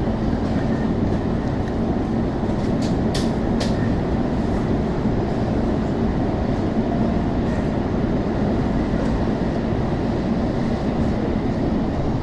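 Interior running noise of a JR E233-1000 series electric commuter train pulling out of a station and gathering speed: a steady rumble with a low hum and a few sharp clicks about three seconds in.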